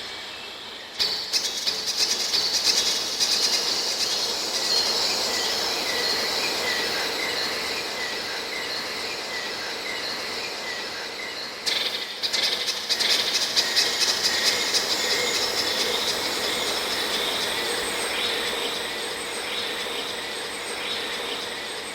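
Time-stretched birdsong with stereo echo laid over it, making a dense wash of high chirps and squeals. The wash comes in abruptly about a second in, and again after a brief dip near the middle.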